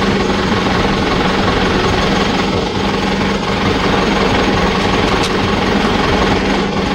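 Steady mechanical drone with a constant low hum, like a running engine.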